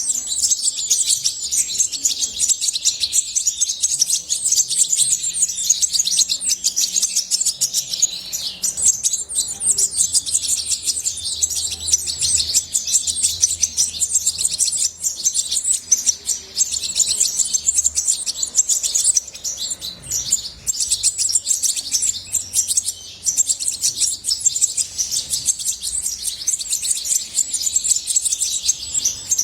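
European goldfinch singing: a long, unbroken run of fast, high twittering and trilling notes.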